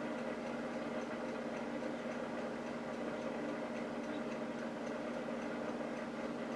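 A steady machine hum, with faint, evenly spaced high ticks over the first few seconds.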